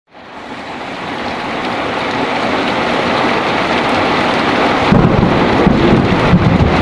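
Heavy rain falling steadily, fading in over the first couple of seconds, with a low rumble of thunder coming in about five seconds in.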